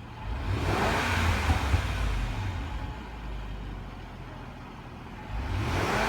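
2010 Range Rover Sport's supercharged V8 revved twice: it rises about half a second in, falls back to idle, then rises again near the end. The engine is being revved to catch a rattle that comes as it spools down, but the rattle does not show on these revs.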